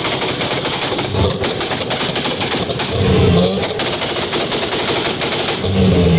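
Mitsubishi Lancer Evolution's turbocharged four-cylinder held on its two-step launch limiter: a rapid, continuous string of exhaust pops and bangs as the limiter cuts the engine. The revs swell again about three seconds in and near the end.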